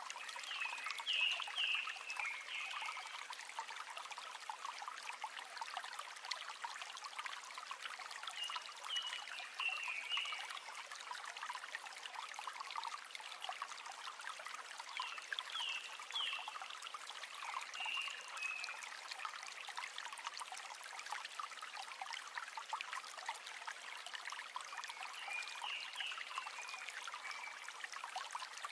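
River water flowing and trickling steadily. Groups of short high chirps come through it four or five times.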